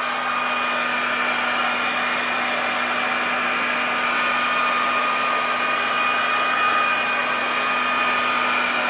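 Electric heat gun running steadily, blowing hot air over a warped pinball playfield plastic to soften it for flattening: a constant rush of air with a steady hum and a faint whine.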